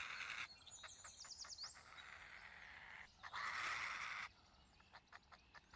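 Faint wild ambience: a quick run of high bird chirps about a second in, with a burst of hiss at the start and another about three seconds in.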